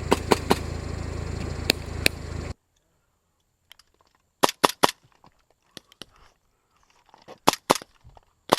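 A staged shootout: a run of sharp gunshot cracks, mostly in quick pairs and triples. About two and a half seconds in, the background hiss cuts off abruptly and the shots go on against silence.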